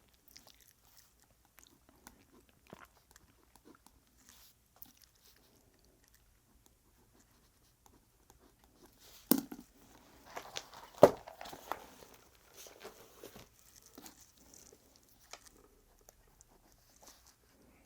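Small handling noises in a quiet small room: scattered faint clicks and rustles, with a louder knock about 9 seconds in and another louder clatter about 11 seconds in.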